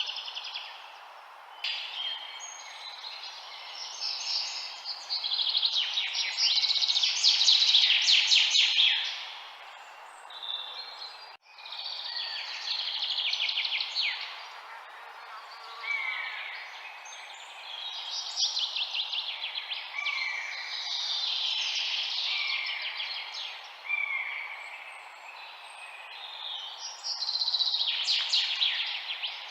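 Several songbirds singing and chirping, phrases overlapping and coming in bursts, with a run of short falling whistled notes about every two seconds in the middle, over a steady background hiss.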